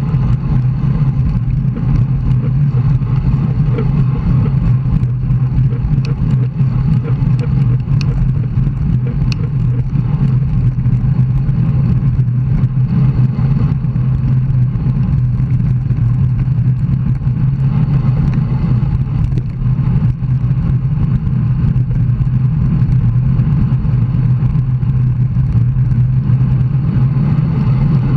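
Steady wind rush and road rumble on a bicycle-mounted camera's microphone during a road ride, loud and unbroken.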